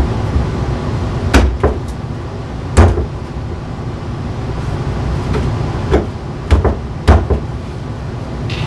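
Sharp knocks of wooden chair parts being tapped or knocked during repair work, about seven at irregular intervals, over a steady low rumble.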